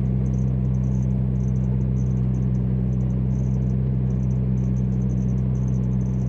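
Turbo Chevy Sonic's 1.4-litre four-cylinder idling steadily through a custom exhaust with one catalytic converter deleted and a turndown pipe, a low even drone. Insects chirp faintly in the background.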